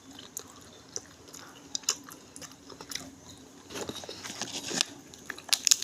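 Close-up eating sounds of a person chewing and biting into adobo frog: scattered wet clicks and small crunches, coming thicker about four seconds in and loudest just before the end.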